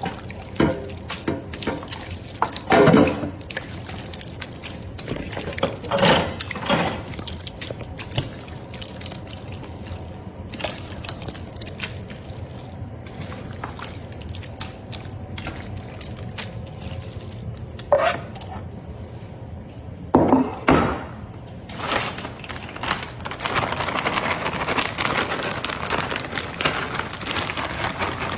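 Ingredients being poured and handled in a kitchen sink: a few short, louder clattering sounds, then a steady pouring hiss that begins near the end.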